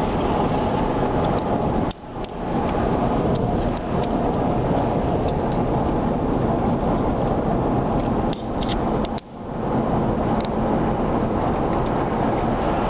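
Steady road and wind noise of a moving car, briefly dipping twice, about two seconds in and about nine seconds in.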